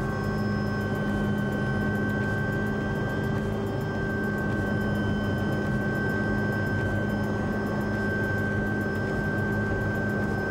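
Helicopter engine and rotor noise, a steady drone with a constant whine and no change in pitch or loudness.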